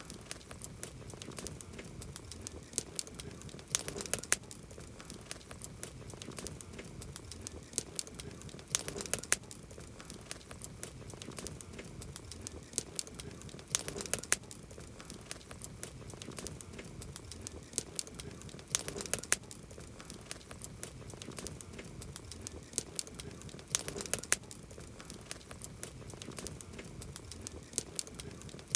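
Campfire crackling: a steady soft hiss of burning wood with many small snaps and pops, and a cluster of sharper pops about every five seconds.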